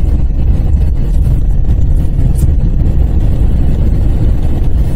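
Steady low road rumble inside a moving car, the tyres running over a snow-covered highway with the engine underneath.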